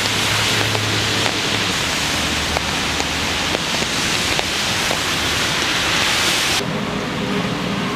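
Chicken deep-frying in hot oil: a steady sizzle with scattered sharp pops. About six and a half seconds in, the sizzle cuts off sharply and a lower hum takes over.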